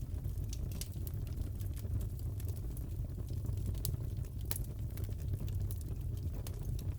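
Crackling fireplace: a steady low rumble of burning with scattered sharp pops and crackles, one louder pop about halfway through.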